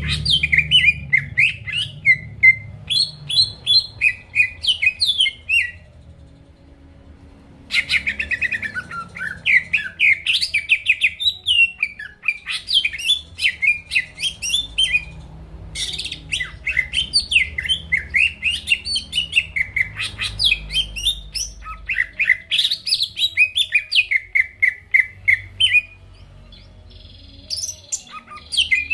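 Green leafbird (cucak ijo) singing in long runs of fast, varied chirps and whistles, breaking off briefly three times.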